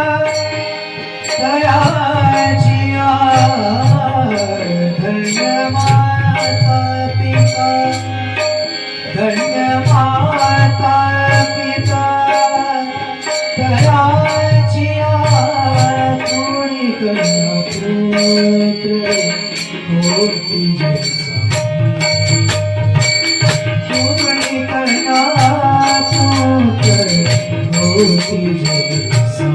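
Devotional bhajan music without sung words: tabla drumming and small hand cymbals keep a steady beat under a held harmonium drone and a melody line that rises and falls in phrases.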